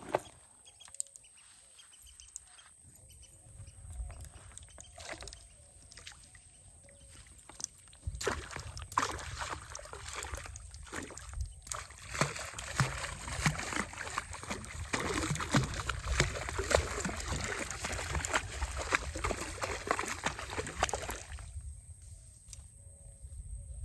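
Water splashing and sloshing: scattered small sounds at first, then a dense run of splashing from about eight seconds in that stops suddenly near the end.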